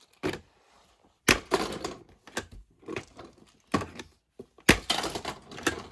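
Five or so sharp plastic clacks and rattling knocks spread over several seconds: toy monster trucks being launched and crashing against a plastic playset.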